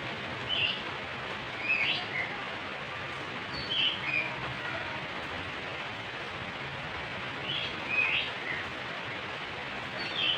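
Oriental magpie-robin (kacer) giving short chirping notes every second or two, with a pause in the middle, over a steady hiss.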